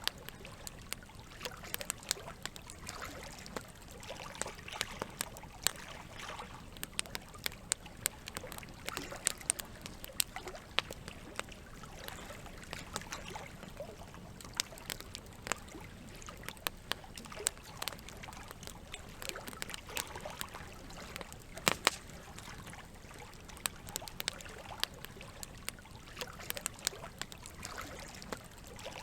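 Campfire crackling with frequent sharp pops, over a steady trickle of running water. A close pair of louder pops comes about three-quarters of the way through.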